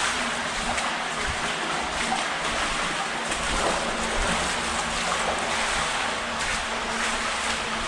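Steady rush of water flowing through a brick culvert tunnel that carries a river underground.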